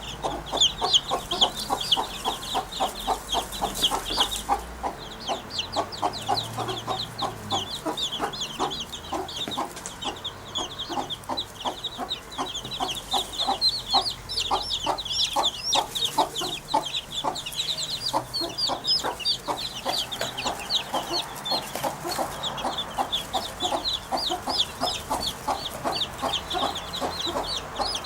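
A continuous, rapid, cluck-like bird chatter with several short calls a second. Higher chirps run alongside it without a break.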